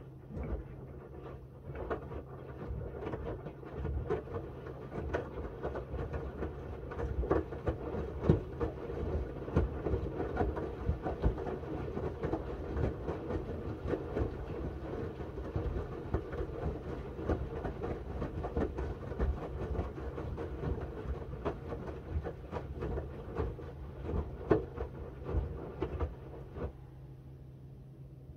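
Miele W1 front-loading washing machine drum turning during the wash, wet linen bedding tumbling and sloshing with irregular knocks and clicks. The turning stops suddenly near the end, as the drum pauses between reversals.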